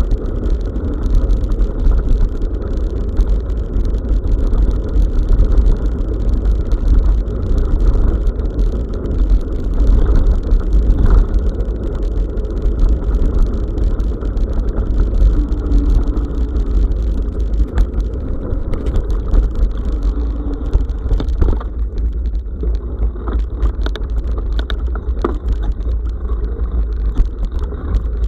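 Riding a bicycle on a forest track, heard through an action camera: a loud, steady rumble of wind and tyres on the rough surface, with scattered clicks and rattles from the bike.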